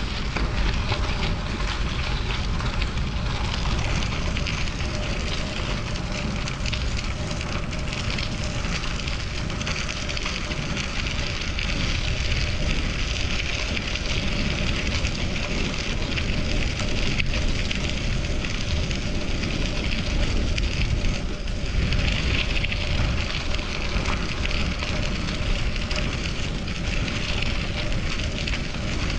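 Bicycle riding along a city road: wind on the microphone with the steady hiss and crackle of the tyres on the pavement, running on without a break.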